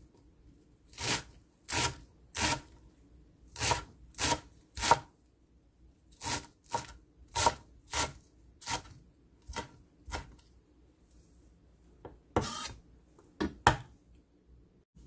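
Kitchen knife slicing green garlic on a cutting board: short, sharp knocks of the blade hitting the board, about one every half second, with a pause of a couple of seconds near the end before a few more cuts.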